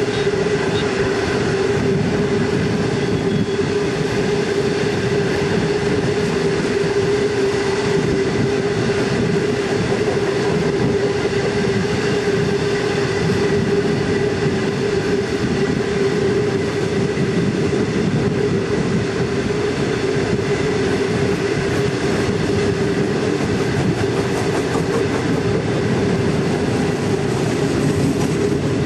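Heavy iron ore train running at speed, heard from on board: a steady rumble of wheels on rail with a constant hum.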